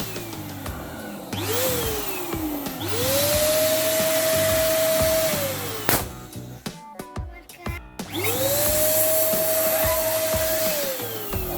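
Electric balloon pump switching on and off: its motor whines up to a steady pitch, runs for a few seconds and winds down, several times. A balloon bursts with a single sharp pop about six seconds in. Background music plays underneath.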